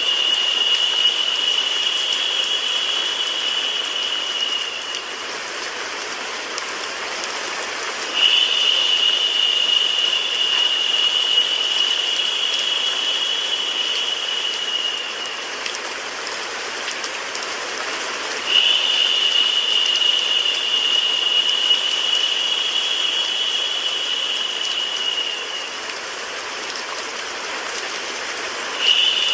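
Recorded rain mixed with white noise: a steady, even hiss. A brighter, higher hiss cuts in about every ten seconds, holds for about seven seconds and fades away.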